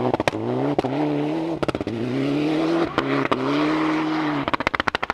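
Rally car engine accelerating hard up through the gears, its pitch climbing in steps with a brief cut at each shift. Near the end the throttle closes and the exhaust fires a rapid string of sharp bangs.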